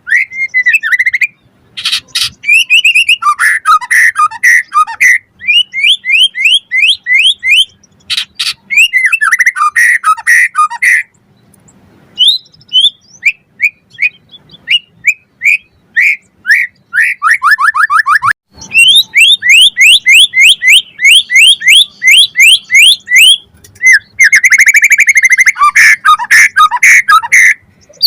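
White-rumped shama (murai batu) singing: fast series of rising whistled notes, several a second, broken by dense buzzy trills and short pauses.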